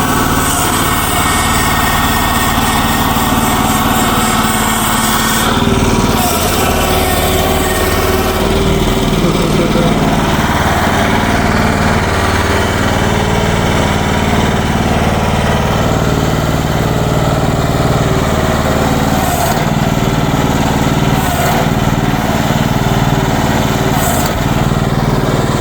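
Future FT15 mini excavator's small engine running steadily, its pitch shifting slightly a few times as the machine works.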